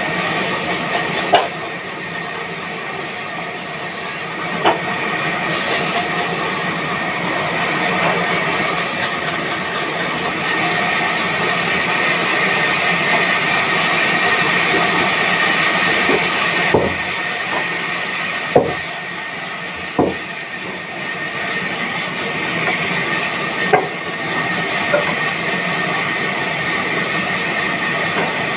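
Woodworking machinery running steadily: a continuous noisy hiss with a faint steady whine, broken by a few sharp knocks.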